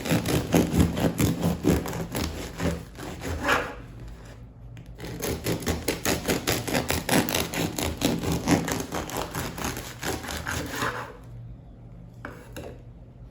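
Serrated bread knife sawing through the crust of a baked sourdough loaf: rapid rough rasping strokes in two spells, with a short pause about four seconds in, then dying away about eleven seconds in.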